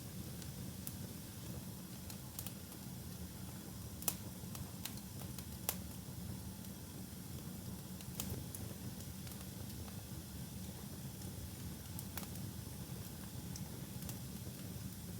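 Wood fire burning in a fireplace: a steady low rumble with scattered sharp crackles and pops, the two loudest about four and six seconds in.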